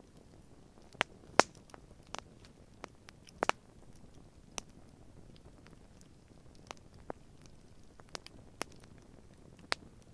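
Wood campfire crackling: irregular sharp pops and snaps over a faint low hiss, the loudest about a second and a half in and again about three and a half seconds in.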